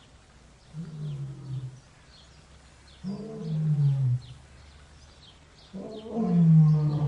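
A large animal calling three times, each call a long, low call that falls in pitch, with faint short high chirps repeating in the background.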